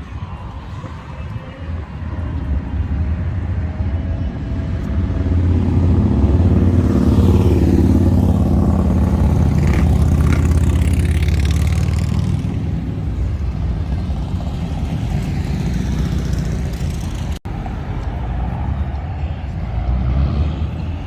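Street traffic going by: a loud engine rumble builds to a peak about halfway through as vehicles pass close, then eases off, with another passing swell near the end. The sound cuts out for an instant about two thirds of the way in.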